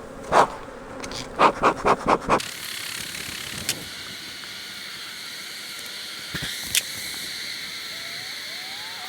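Honey bees buzzing around an open, very strong hive: a steady hum, with a couple of faint clicks in the middle.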